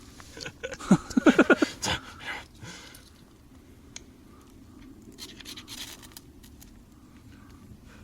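A person laughing briefly, a quick run of 'ha-ha' pulses about a second in, followed by faint scratches and clicks.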